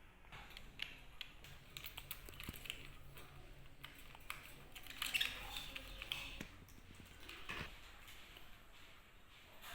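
Pet lovebirds making soft chirps among many scattered small clicks and taps, loudest about five seconds in.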